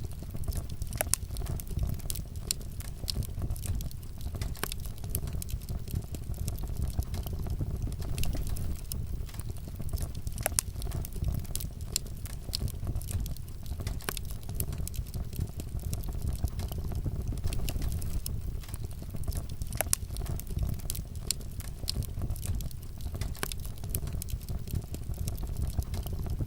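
Fireplace fire crackling steadily: a low rumble of flames under frequent sharp pops and snaps, with a few louder pops scattered through.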